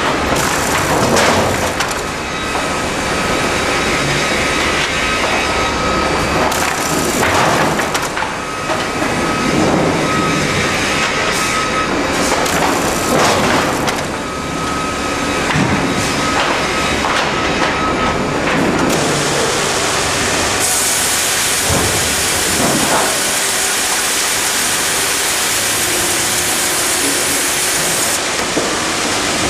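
Sawmill line running, cutting logs into pallet boards: continuous machine and saw noise with repeated knocks and clatter of timber. A steady whine sounds for the first two-thirds, and a loud hiss comes in about two-thirds in and stops shortly before the end.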